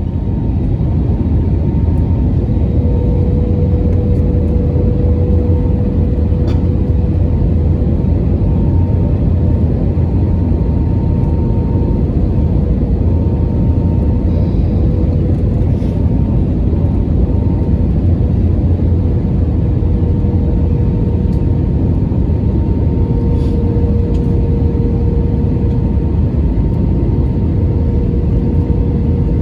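Airbus A321 cabin noise on final approach: a steady low rumble of engines and airflow with a faint steady whine over it.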